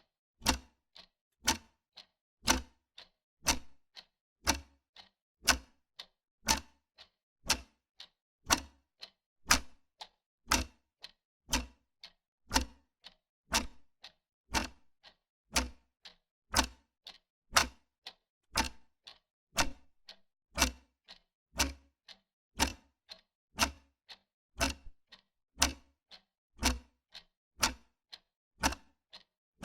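Wall clock ticking steadily at about two ticks a second, the strokes alternating louder and softer in a tick-tock rhythm.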